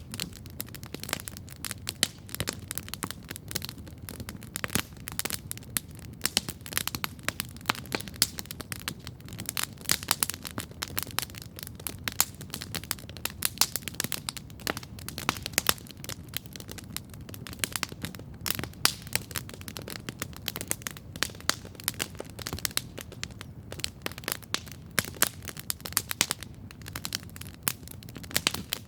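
Wood campfire crackling steadily, with many irregular sharp pops and snaps over a low, steady rumble.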